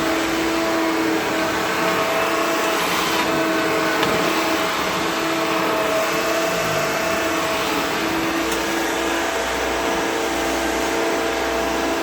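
1970s Hoover Dial-O-Matic power-drive upright vacuum cleaner running steadily while vacuuming a floor, its motor giving an even hum over a rushing hiss. A deeper low rumble joins in about two-thirds of the way through.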